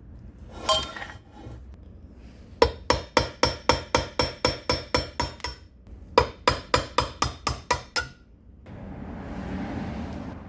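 A hammer striking metal in two quick runs of ringing blows, about five a second with a short pause between, as part of taking apart an old Makita electric planer. A single knock comes before them, and a short noisy rustle comes near the end.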